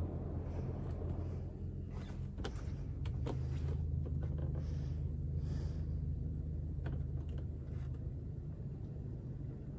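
Toyota Innova Crysta's 2TR-FE four-cylinder petrol engine idling steadily, with a few short clicks about two and a half, three and a half and seven seconds in.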